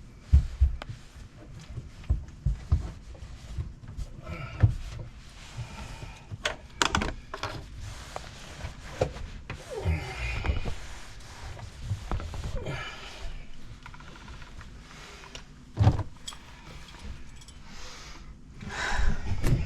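Irregular knocks, clunks and rustling from handling plumbing parts and tools, with a few sharper knocks standing out, one about a second in and one late.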